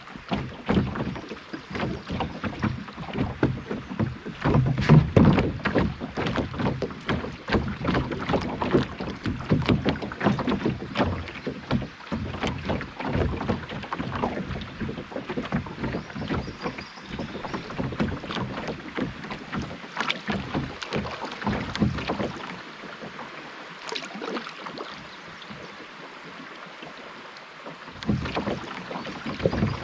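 Canoe being paddled on a river: an irregular run of water splashes and knocks against the hull. It eases off for a few seconds past the middle, then picks up again near the end.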